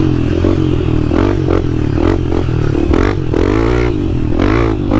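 Dirt bike engine revving up and down as it is ridden over a motocross track, its pitch rising and falling every second or so, with knocks and clatter from the bike over the bumps.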